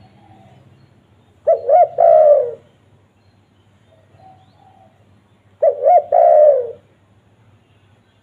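Spotted dove (tekukur) cooing: two loud phrases about four seconds apart, each two short notes followed by a longer coo that falls in pitch. Fainter coos sound between the phrases.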